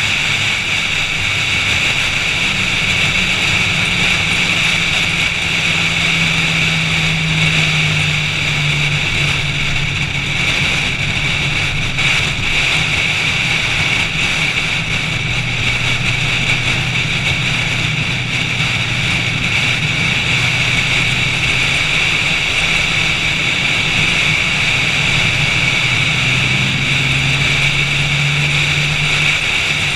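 Car engine running at speed on track, its pitch climbing, dropping and climbing again with throttle and gear changes, under a steady rush of wind noise.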